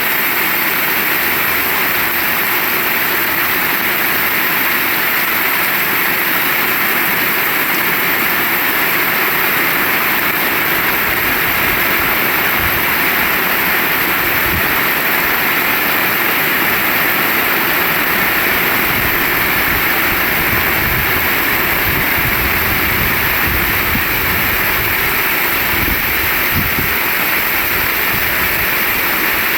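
Heavy rain falling in a steady, even hiss. Low rumbles come and go in the second half.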